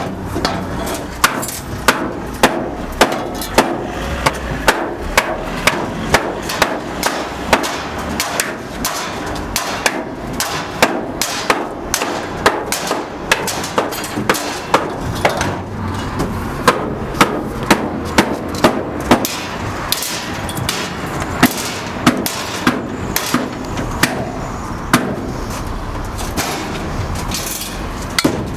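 Repeated sharp knocks and bangs, irregular, about two a second, over a steady background noise.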